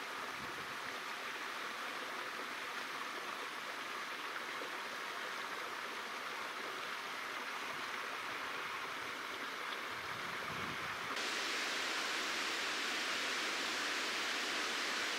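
Steady rush of flowing river water, stepping up suddenly to a louder, brighter rush about eleven seconds in.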